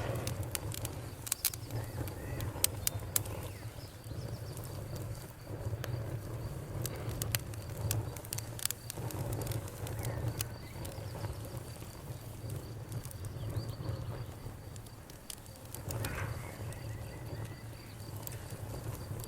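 Bonfire crackling with sharp pops, thicker in the first half, over a low rumble of burning. A cricket chirps steadily at a high pitch throughout.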